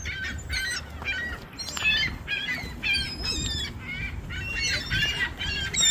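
A flock of seagulls calling, a rapid run of short, overlapping high calls.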